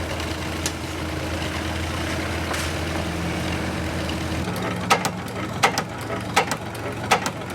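An engine running steadily with a low hum. About four and a half seconds in, the hum drops and a series of sharp clicks or knocks begins, roughly one every 0.7 seconds.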